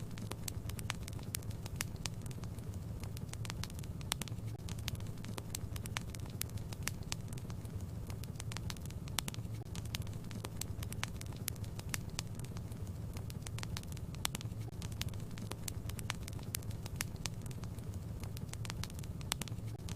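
Fire in a fireplace crackling, with many sharp irregular pops over a steady low hum.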